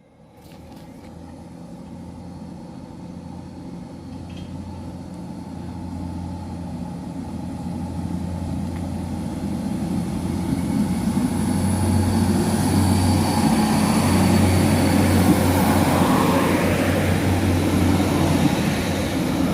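Northern Ireland Railways Class 3000 diesel multiple unit pulling away from the platform, its diesel engines running under power with a steady drone that grows steadily louder as it gets going.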